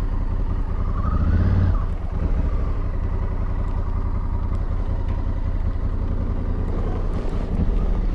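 Honda Africa Twin Adventure Sports' parallel-twin engine running on the move. The revs rise briefly about a second in, then ease off.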